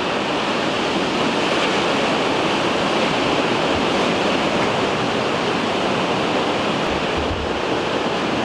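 Steady, even rush of water noise with no breaks.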